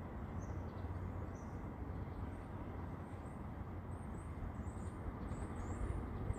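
Faint, high, thin bird chirps that come more often from about two seconds in, over a steady low outdoor rumble.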